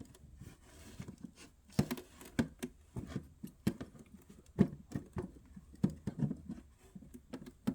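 Light, irregular wooden knocks and taps, about eight sharp ones, as a small painted wooden dollhouse door is worked back into its frame, where a blob of paint makes it fit too tightly.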